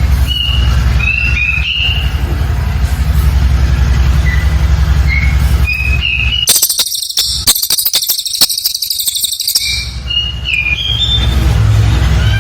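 Cililin bird singing: short whistled chirps, then a dense, rapid high-pitched chattering burst about six seconds in that lasts around three seconds, then more short chirps. A steady low hum runs under the song except during the burst.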